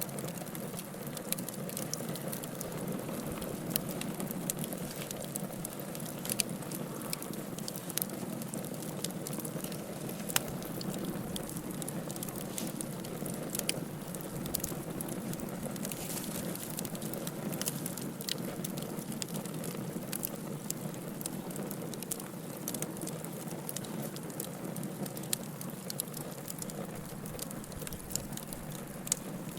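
Wood fire burning in a fireplace: a steady low rushing with frequent small crackles and now and then a sharper pop.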